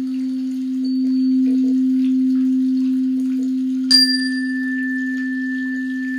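A singing bowl sounds one steady, sustained low tone with a slight wavering. About four seconds in, a bell-like chime is struck once and its higher tone rings on over the hum.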